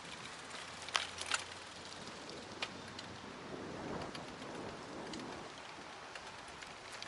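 Outdoor wind noise, an even rustling hiss, with a few sharp crackles about a second in and again near three seconds.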